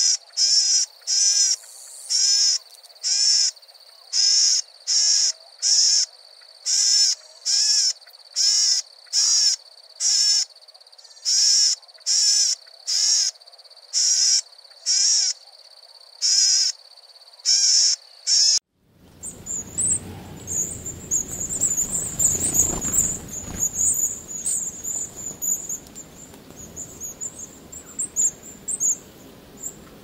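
Golden-headed cisticola calling: a short buzzy note repeated a little more than once a second. About eighteen seconds in it switches suddenly to red-browed finch, giving thin, very high calls over a background hiss.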